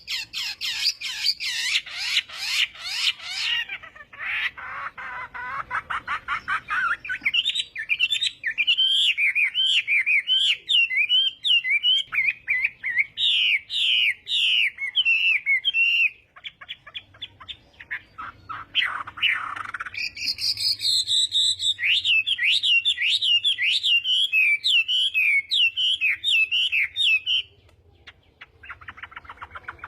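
Chinese hwamei singing a loud, rapid song of varied, repeated warbling phrases. The song eases to scattered notes about halfway through, comes back strongly, then breaks off near the end.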